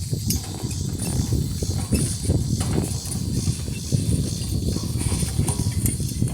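Team of harnessed donkeys walking: a run of hoofbeats and harness clinks over a steady low rumble.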